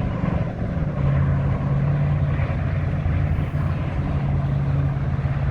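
A motor engine running steadily, its pitch stepping up slightly about a second in, over a rushing background.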